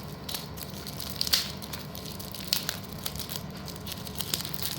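Slate pencil bars being handled and unpacked: irregular sharp clicks and short crackly rustles.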